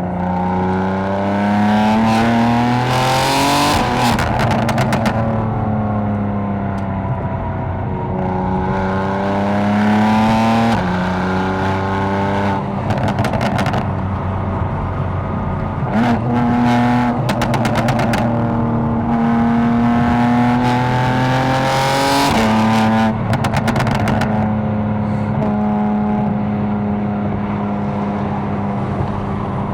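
Catless BMW M4 twin-turbo straight-six pulling hard through the gears. The engine note climbs in pitch and drops back at each shift, about three times, with sharp bursts of crackling between some of the pulls.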